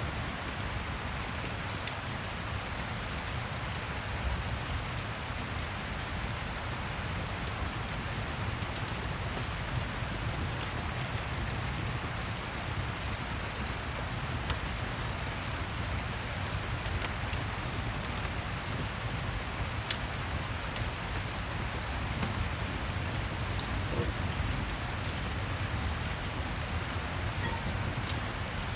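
Steady rain, with scattered faint crackles of a wood fire.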